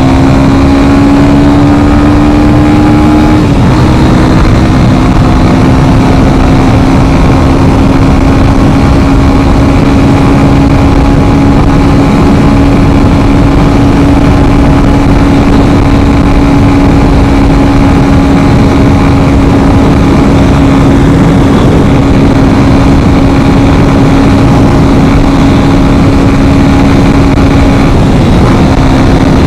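Yamaha FZ25's single-cylinder 250 cc engine pulling under a rising note, shifting up about three and a half seconds in, then cruising at steady revs, with a small dip in the note near the end.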